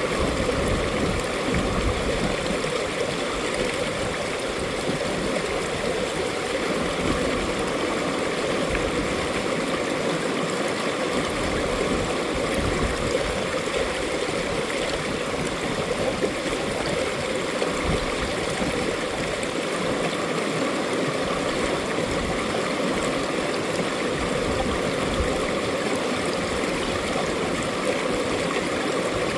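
Mountain valley stream flowing over rocks: a steady, unbroken rush of running water.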